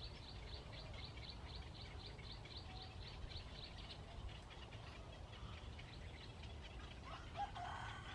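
Birds calling: a high note repeated about four times a second that stops about four seconds in, then a lower, louder call near the end, over a steady low rumble of outdoor background noise.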